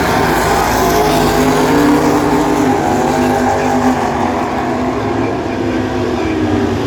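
Drag-racing cars running hard down the strip, engine pitch climbing over the first few seconds, then the sharper top of the sound fading as they pull away.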